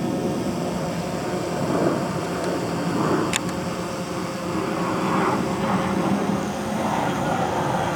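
Radio-controlled model airplane's engine running steadily in flight, with a short sharp click about three seconds in.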